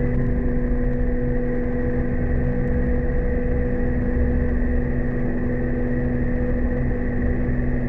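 Steamship machinery running steadily under test, a constant hum over a low rumble with no change in speed.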